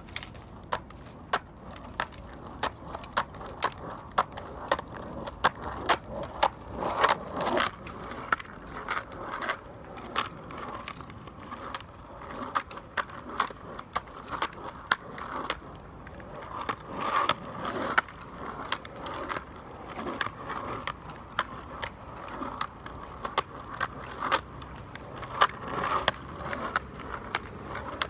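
Skateboard rolling on pavement: a steady rolling noise with a run of sharp clicks, about two a second, and the rolling swelling louder a few times.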